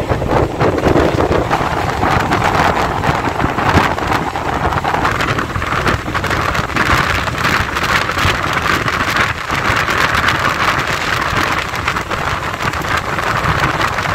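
Running noise of an electric suburban local train at speed, heard at its open doorway: a steady clatter of wheels on the rails with a dense run of clicks, and wind rushing past the door.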